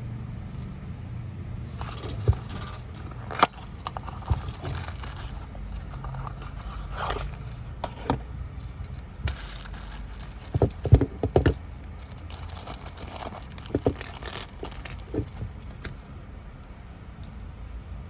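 Handling noises: scattered clicks, knocks, scrapes and rattles of small hard objects being moved and set down, over a steady low hum. The sharpest cluster of clicks comes about eleven seconds in.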